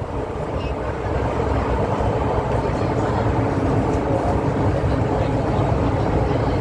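MTR M-Train electric multiple unit running between stations, heard from inside the passenger car: a steady low rumble of wheels on the rails and running gear, with a faint steady motor whine.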